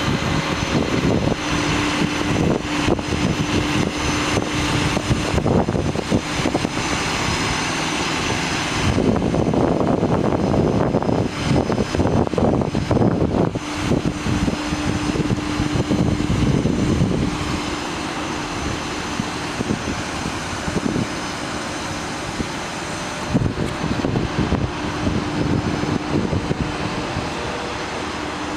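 A Ford F750's PowerStroke 6.7-litre diesel running to drive the aerial boom's hydraulics: a steady engine drone with a whine that comes and goes. It gets louder and rougher for a few seconds about a third of the way in.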